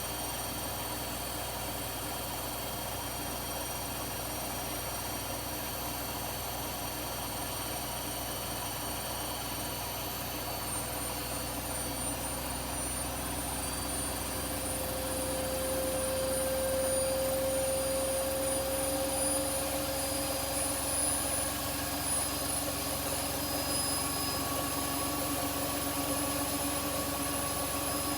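Front-loading washing machines on a high-speed spin, a steady motor and drum whine that slowly rises in pitch and grows louder about halfway through as the drum speeds up.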